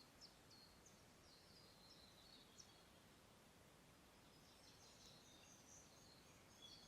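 Faint songbirds chirping and twittering in short high-pitched phrases over a quiet, steady background hiss, with the song growing busier about two-thirds of the way through.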